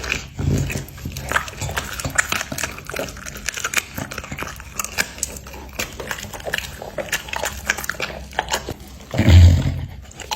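A bully-breed dog chewing meat, with a dense run of irregular wet clicks and smacks. A loud low thump comes about nine seconds in.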